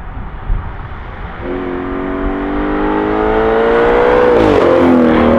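Tuned Audi RS6 Performance twin-turbo V8 accelerating hard toward the listener. A low rumble gives way, about a second and a half in, to an engine note that rises steadily, drops sharply about four and a half seconds in, then climbs again.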